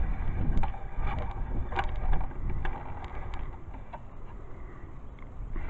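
Low rumble of wind buffeting the microphone, with scattered light clicks and knocks from the camera being handled and set back up on its mount.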